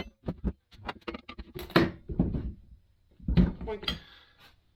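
Motorcycle tire spoons prying a stiff Dunlop D604 Trailmax tire's bead over a Honda Grom wheel rim: a run of clicks and knocks with a few heavier scraping thuds.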